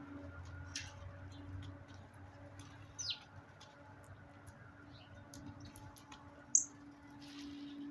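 Backyard birds calling: a short falling chirp about three seconds in and a brief sharp high note near the end, over a steady low hum.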